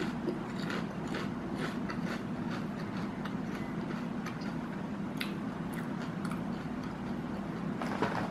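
Faint crisp crunches of a Lay's salted egg potato chip being chewed with the mouth closed, over a steady low hum. About eight seconds in, the foil chip bag crinkles as a hand reaches into it.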